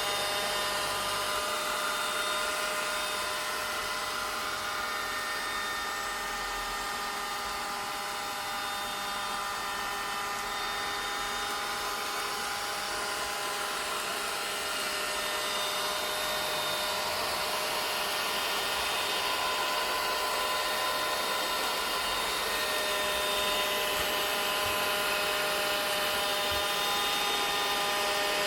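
A vacuum cleaner running steadily. Its motor gives a whine of several steady tones over a rushing hiss.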